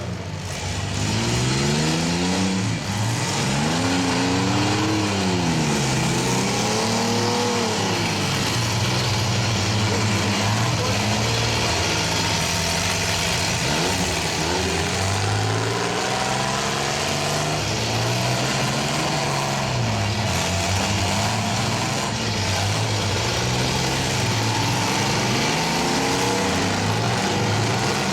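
Engines of several small pickups and vans in a demolition derby, revving up and down again and again as the drivers accelerate and back off between hits.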